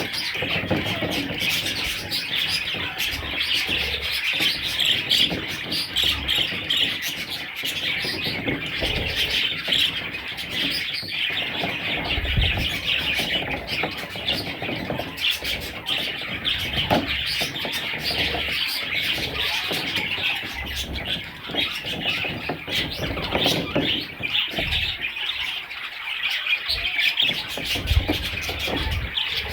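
A flock of budgerigars chirping and chattering continuously, a dense run of rapid high chirps, with an occasional low thump.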